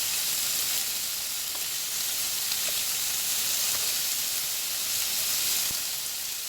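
Chicken tenders frying in butter in a pan, a steady sizzle with a few faint pops.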